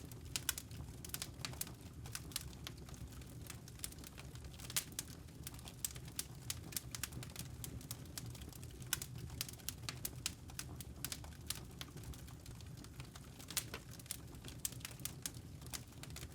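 Wood fire crackling: irregular sharp pops and crackles over a steady low rush of the flames.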